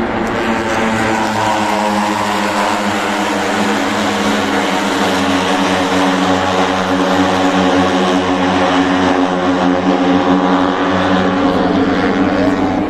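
Moto3 racing motorcycles, 250 cc single-cylinder four-stroke engines, running at high revs in a loud, steady drone that grows a little louder in the second half.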